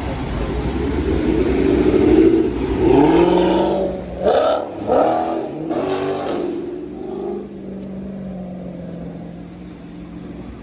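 A performance car's engine revving hard, with two or three sharp throttle blips about halfway through, then settling into a steady drone.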